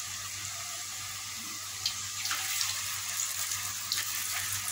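Besan-coated potato fries sizzling in hot oil in an aluminium pot: a steady hiss with a few sharp crackles, as another coated potato stick is dropped into the oil near the end.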